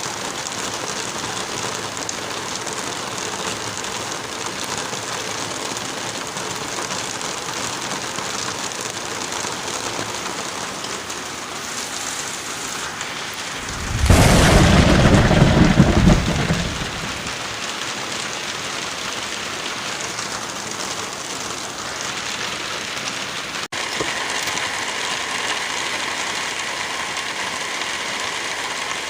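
Steady heavy rain, with one loud rumble of thunder swelling up about halfway through and dying away over about three seconds.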